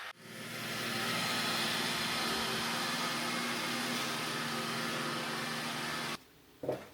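A household appliance's motor running with a steady hum and whir, building up over the first second and cutting off abruptly about six seconds in, followed by a short click.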